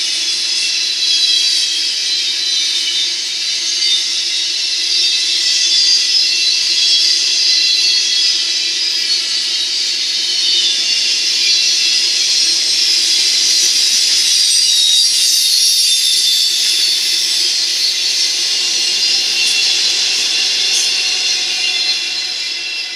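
Double-stack freight cars rolling past close by: a steady, high hiss and ring of steel wheels on rail. Norfolk Southern locomotives come by near the end, and the sound begins to drop away in the last second.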